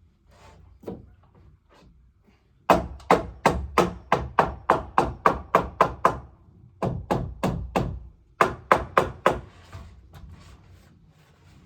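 Hammer blows on wood in three quick runs of about four strikes a second, with short pauses between the runs.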